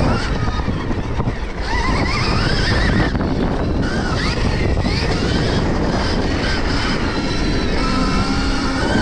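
Stark Varg electric motocross bike's motor whining, its pitch climbing and dropping several times as the rider accelerates and backs off, over heavy wind buffeting on the microphone.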